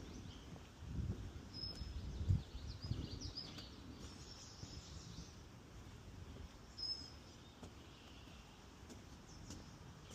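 Wild birds chirping and trilling in short calls over a steady outdoor hush. In the first few seconds a few low thuds of footsteps on a wooden boardwalk, the loudest about two seconds in.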